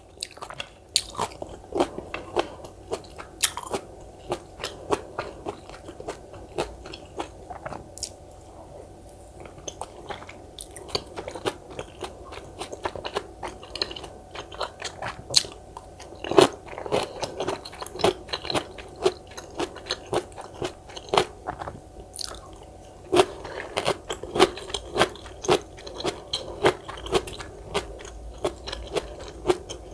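Close-miked eating: crisp crunching and chewing of cubed radish kimchi (kkakdugi) in quick, irregular bites. The crunching comes in louder, busier runs around the middle and again over the last several seconds.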